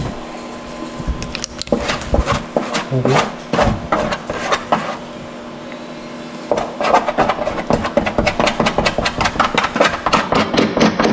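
A stick stirring freshly mixed fibreglass resin and hardener in a container: irregular knocking and scraping strokes, then from about six and a half seconds in a fast steady beat of about four or five knocks a second against the container wall.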